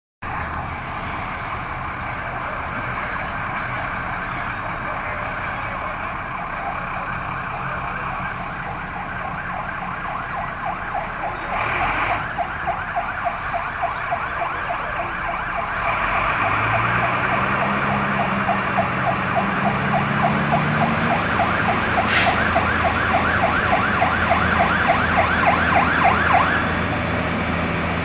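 Emergency vehicle siren sounding a fast, repeating warble over a steady rushing noise. Lower steady tones join about two-thirds of the way through, and the warble stops shortly before the end.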